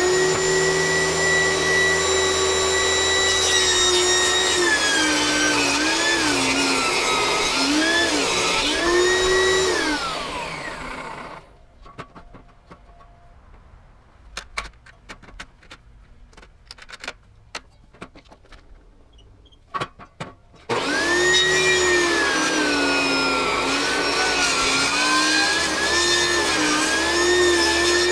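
Table saw fitted with a ripping blade, cutting very hard American beech: the motor's whine dips in pitch again and again as the blade bogs down under the load, then winds down about ten seconds in. After several seconds of light knocks and clicks, the saw starts up again about twenty seconds in and runs another pass with the same dips in pitch.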